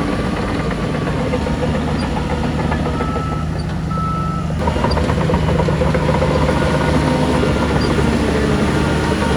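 Heavy diesel earthmoving machinery running with a steady low drone, with two short reversing beeps about three to four seconds in. The engine noise grows a little louder and harsher about halfway through.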